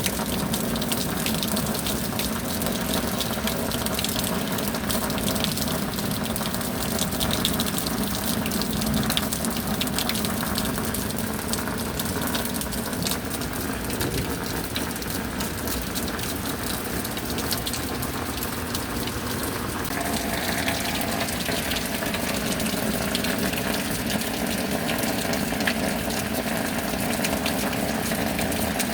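Steady rain, with many separate drops ticking over a continuous wash of water; the sound's texture shifts about two-thirds of the way through.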